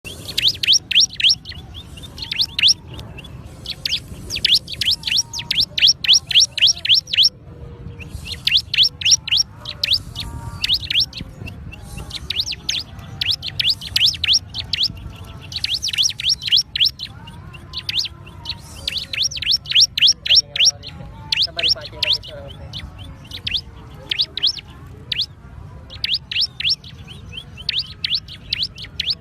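Ciblek gunung, a prinia, singing: runs of rapid, sharp, high chirps, several a second, each run lasting a few seconds with short pauses between.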